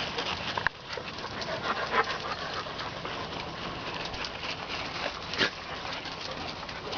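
A puppy and a slightly larger dog playing together: steady scuffling noise with a few brief sharp dog sounds, the loudest about five and a half seconds in.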